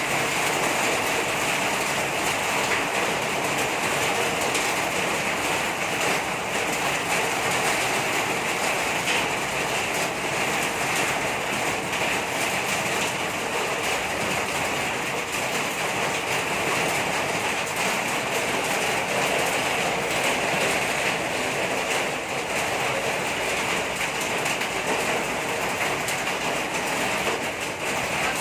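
Water pump engine running steadily with an even mechanical clatter.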